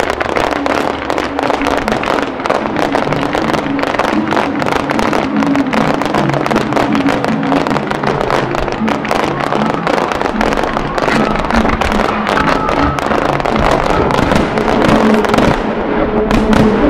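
Aerial fireworks going off in a dense, rapid run of small pops and crackles, with music playing underneath.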